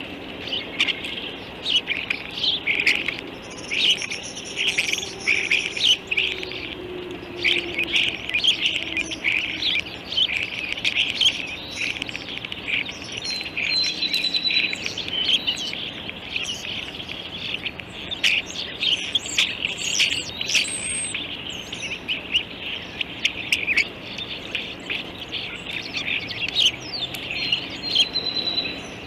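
Birds calling in rapid, dense chirps without a break, with a few higher, thinner whistled notes mixed in.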